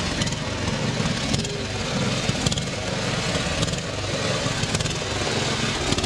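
A vehicle engine running steadily with an even low pulsing rumble.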